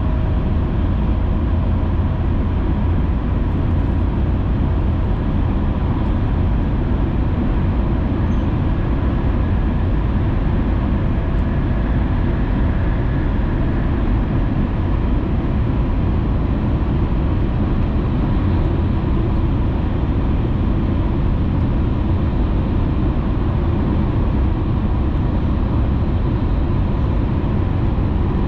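Hayabusa shinkansen running at speed, heard inside the passenger cabin: a steady, even rumble with faint steady tones above it.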